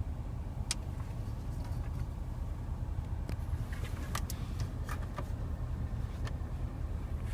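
Steady low hum inside the car's cabin, with scattered light plastic clicks and taps from interior trim being handled, such as the dash cup holders.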